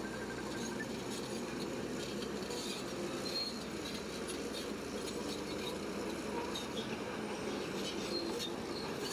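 Bulldozer running steadily, with scattered squeaks and clinks, like steel crawler tracks.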